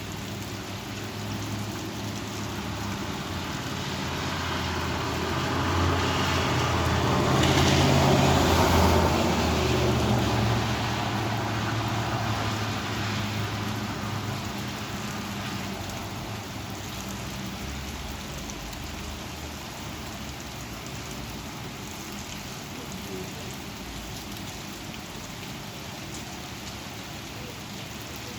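Steady rain falling during a thunderstorm. A louder rushing swell builds about four seconds in, peaks around eight seconds with a low rumble, and dies away by about sixteen seconds, like a vehicle passing on the wet road.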